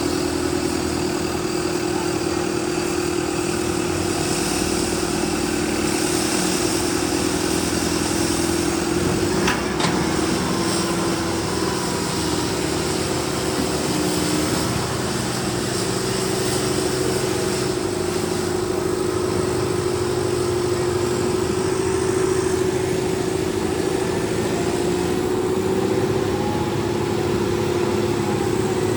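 Tractor diesel engine running steadily under load, a constant unbroken drone with a steady tone.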